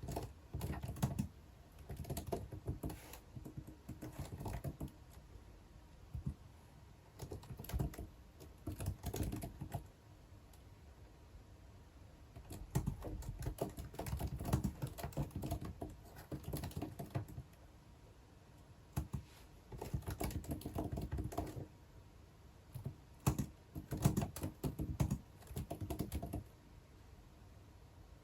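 Someone typing on a computer keyboard in bursts of rapid key clicks, pausing for a second or two between bursts.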